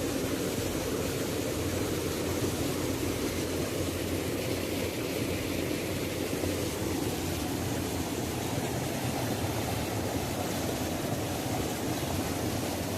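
Waterfall: a steady, unbroken rush of falling water, deep and full.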